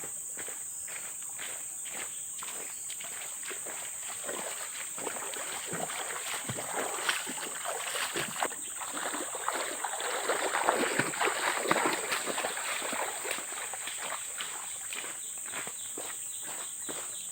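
A steady, high-pitched drone of forest insects, over a string of quick knocks and rustles. The knocks and rustles grow louder and busier around the middle, then thin out again.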